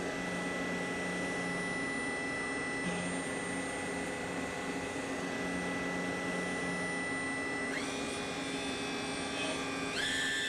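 CNC lathe running: a steady machine noise made up of several constant whines. Near the end, a whine rises in pitch twice and then holds.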